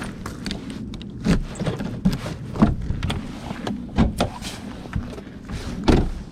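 Irregular knocks and clunks of hands working on a car's front end.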